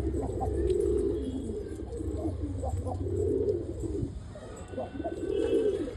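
Ghafuri pigeons cooing: low, rounded coos that swell and fade, about three main calls with softer ones between.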